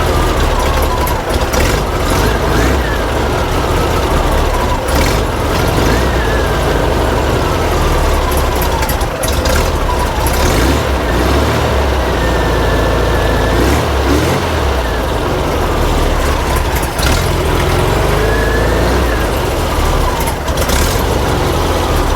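Air-cooled flat-four engine of a 1950s VW Bus running at a raised idle, its speed swelling and sagging every few seconds as the carburettor idle screws are adjusted. It will not settle into a smooth idle.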